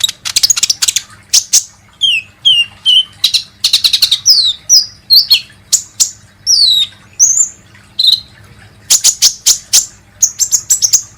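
A sunbird of the kind Indonesian bird-keepers call 'kolibri ninja' singing a loud, busy song of rapid buzzy trills broken by short high whistles that slide downward. It is played as a lure call to draw in or stimulate other birds.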